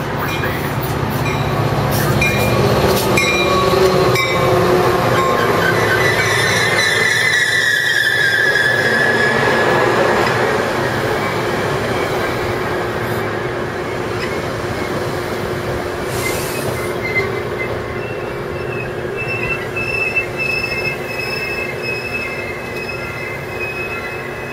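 Metra commuter train arriving at a station: the F40PH-2 diesel locomotive comes by, then stainless-steel bilevel coaches roll past with a steady rumble of wheels on rail. High wheel squeals sound as the train slows, a gliding one about a third of the way in and steadier ones through the last third.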